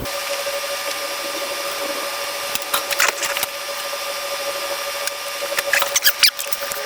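Clicks and rattles of hand tools at work in an engine bay while spark plugs go back in, in two short clusters about three seconds in and again near six seconds. A steady hum with a fixed tone runs under it.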